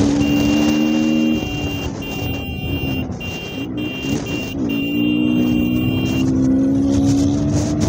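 KTM Duke motorcycle's single-cylinder engine running under way in traffic, its pitch dipping briefly about four and a half seconds in.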